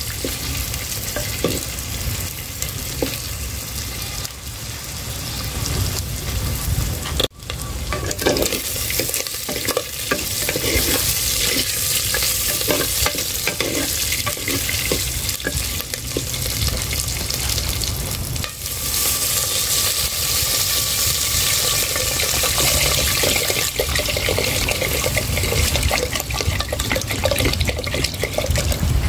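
Pork and garlic frying in oil in a pot, a steady sizzle, stirred with a wooden spatula that knocks and scrapes against the pot. Near the end water is poured into the hot pot.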